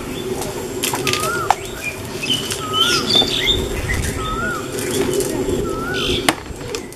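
Birds calling at dusk: one bird repeats a short rising-and-falling whistle every second or so, with other chirps around it. Underneath is a steady low hum, and there are a couple of sharp clicks.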